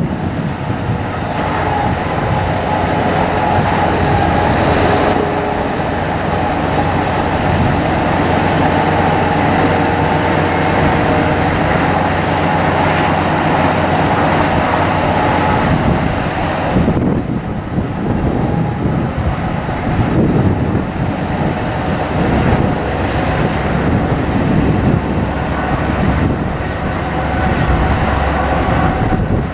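Bucket truck's engine running with the PTO engaged, driving the hydraulic pump that works the boom. A steady whine sits over the engine rumble, then drops away about halfway through, leaving an uneven low rumble.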